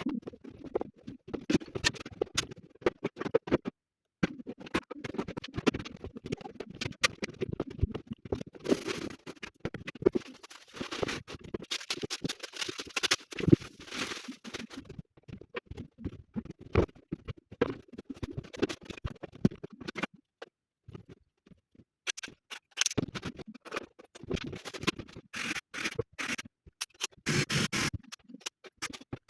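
Scraping and scratching against a wall surface in irregular strokes, with clicks, as the wall is prepared for panels. It stops dead twice, around four seconds in and again near the two-thirds mark.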